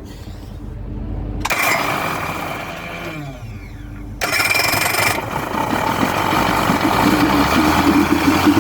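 Fast rescue boat's petrol engine started on its electric starter with the choke pushed in. It cranks, catches with a sudden jump in loudness about four seconds in, and runs on, its hum steadying toward the end.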